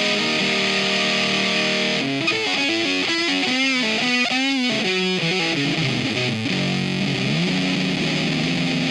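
Electric guitar played through a Square Face-style germanium/silicon transistor fuzz pedal: held fuzzed chords, then single notes with wide vibrato and bends, and a slide about seven seconds in.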